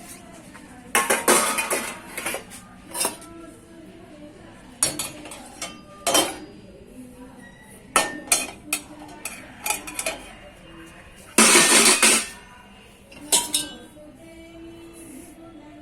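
Washed dishes and cutlery clinking and clattering as they are handled, in irregular knocks, with a longer, louder clatter about three-quarters of the way through.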